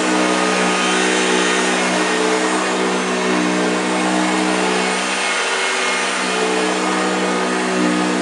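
1965 Hoover Junior 1334A upright vacuum cleaner running steadily, its motor hum shifting slightly in pitch every few seconds as it is worked over the floor.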